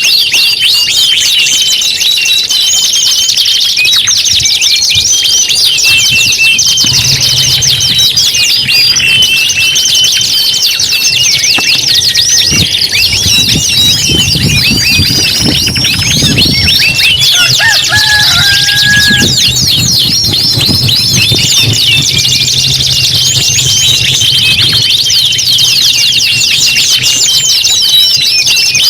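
Several domestic canaries singing together in a continuous, dense chorus of fast rolling trills and chirps, loud and high-pitched throughout.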